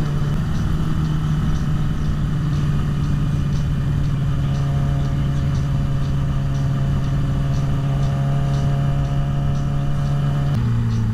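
Yamaha YZF-R6 sport bike's inline-four engine running at a steady cruising speed, with wind noise on the microphone; its note drops in pitch near the end.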